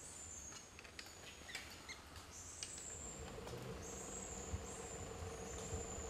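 Faint forest ambience with a bird giving thin, very high-pitched drawn-out notes that fall slightly in pitch, repeated several times, over scattered faint ticks; a faint steady hum comes in about halfway.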